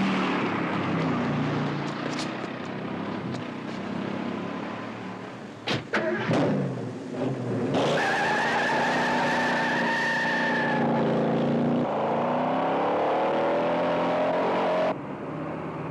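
Car-chase sound: car engines running hard, a few sharp knocks about six seconds in, then a long steady tire squeal, and an engine rising in pitch as it speeds up near the end.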